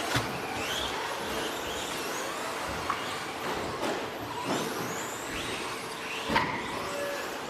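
Several 1/10-scale electric stadium trucks with 13.5-turn brushless motors racing, their motors whining up and down in overlapping rising and falling pitches as they accelerate and brake. A few sharp knocks stand out, the loudest about six seconds in.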